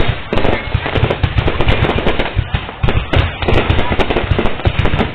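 Fireworks display going off in rapid, near-continuous bangs and crackles, many reports a second with no pause, over voices of onlookers.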